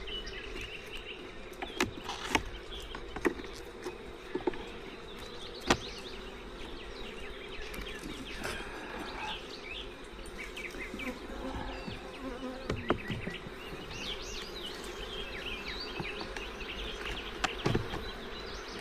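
Swarm of honeybees buzzing steadily around an open hive, with a few short sharp clicks and knocks over the hum.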